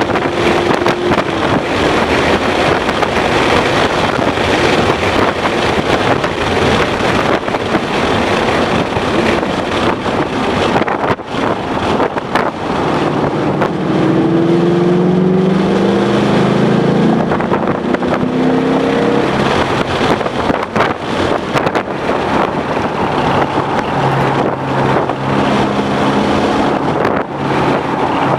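Ford Mustang GT's 5.0-litre V8 driven hard on a race track, heard through heavy wind buffeting on the microphone. About halfway through, the engine note climbs in several short rises, and near the end it holds a steady pitch.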